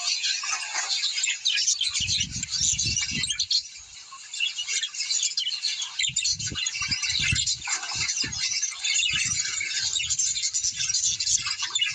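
A flock of small birds chirping and chattering densely and without pause, with stretches of soft low thumps under the calls.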